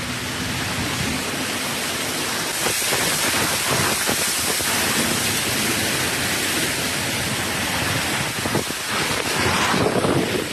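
Heavy rain pouring down in a steady, dense hiss that grows a little louder a couple of seconds in.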